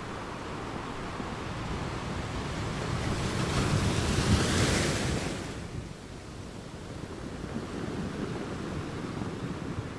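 Ocean waves on a sandy beach: a wave swells and breaks about four seconds in, its wash dying away quickly a little after five seconds, under a steady surf rumble.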